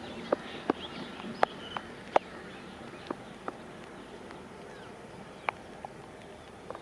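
Outdoor rural ambience with faint chirping over a steady background hiss, broken by a series of sharp, irregular clicks, most of them in the first half.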